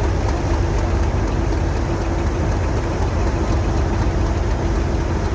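Diesel locomotive engine idling: a steady low rumble with a constant hum.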